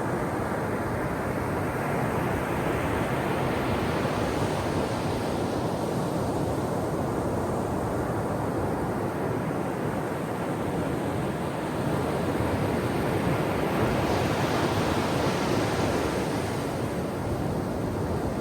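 Ocean surf washing on a shore: a continuous rush of water, with two waves building and breaking into a brighter hiss, one a few seconds in and a louder one near the end.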